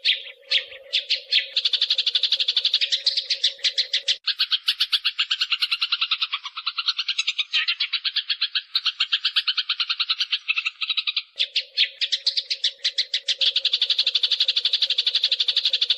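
Eurasian tree sparrows fighting: a dense, unbroken run of rapid, shrill chattering chirps. A steady low hum sits beneath them, dropping out from about four seconds in until about eleven seconds.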